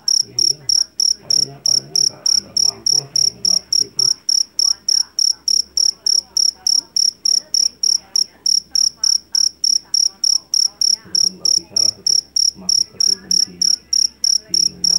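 Jangkrik jeliteng (Javanese black field cricket) chirping shrilly, an even run of short high chirps at about three to four a second.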